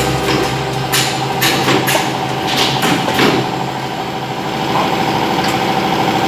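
Hydraulic turret punching machine running, a steady machine hum with irregular sharp clacks over it.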